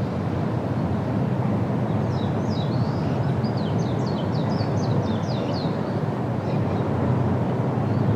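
Steady rush of wind through trees, with a small bird calling a quick series of about a dozen short, high chirps that each drop in pitch, from about two seconds in to about six seconds in.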